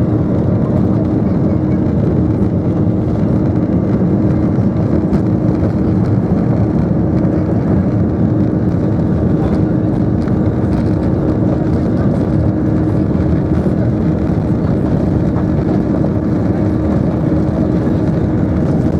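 Airbus A320 engines running steadily, heard from inside the passenger cabin as an even rumble with a faint steady hum, holding one level without rising or falling.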